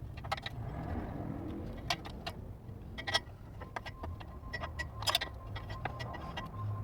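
Scattered metallic clicks and clanks of tools and exhaust pipe being handled under a car during exhaust installation, over a steady low hum.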